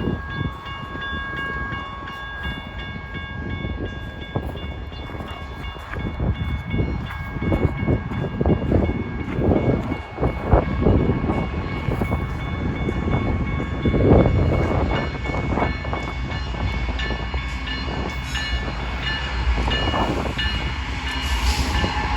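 Approaching BNSF diesel freight train led by GE locomotives, with a low rumble that builds toward the end, while the grade crossing's warning bell rings steadily.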